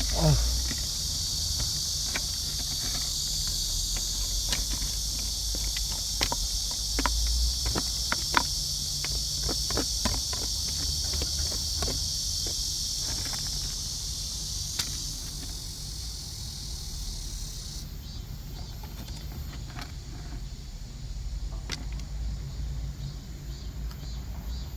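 Insects trilling steadily in a high, continuous chorus that fades after about 15 seconds, with scattered light clicks and taps throughout the first half.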